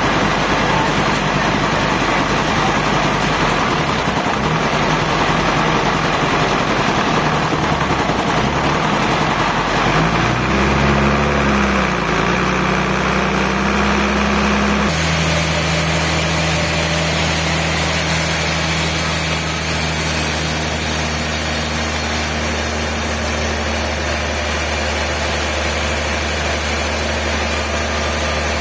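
Sawmill machinery running, a steady engine hum with machine noise. The engine note dips and rises about ten seconds in, and the sound changes abruptly about halfway through.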